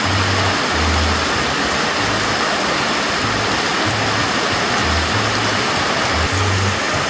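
Heavy rain pouring down on a flooded street, a steady dense hiss of drops splashing into standing water. Low bass notes of music pulse underneath.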